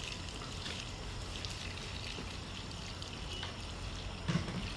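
Steady rush of running, trickling water, with a few faint ticks and a short low sound about four seconds in.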